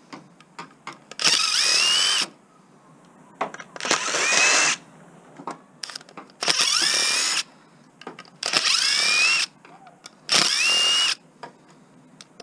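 Power drill driving screws out, run in five short bursts of about a second each, its motor whine rising as it spins up at the start of every burst.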